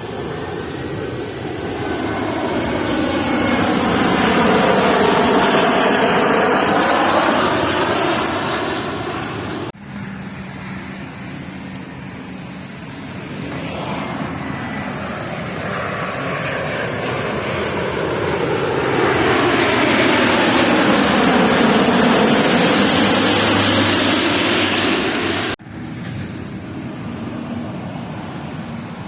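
Two jet airliners passing low overhead on landing approach, one after the other, each swelling to a loud rush of jet noise over several seconds and then cutting off abruptly.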